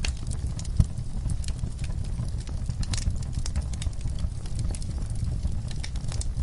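Fire in a fireplace crackling: a steady low rumble of flames under many scattered sharp crackles and pops, with one louder pop about a second in.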